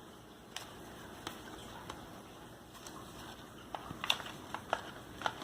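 Scissors cutting and fingers working at a doll box's plastic packaging: scattered small snips and clicks, coming thicker in the last second and a half.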